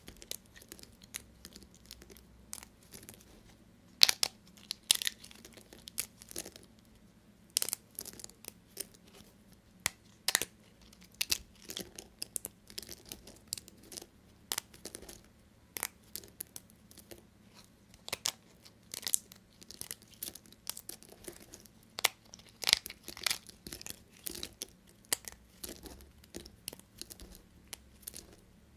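A knife cutting through dry soap: a run of crisp crunches and crackles at irregular intervals, with a few louder sharp snaps as pieces break away.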